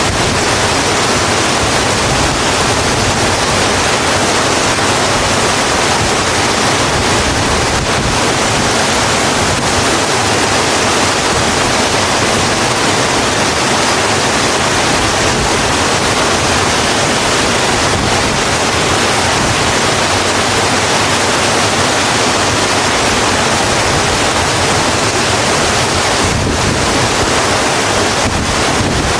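Steady heavy rain falling on a road, a dense, even hiss with no breaks or single drops standing out.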